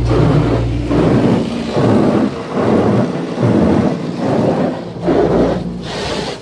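Automatic tunnel car wash equipment working over the car: a loud rushing, rumbling wash noise that surges about once a second, over a low motor hum in the first second or so.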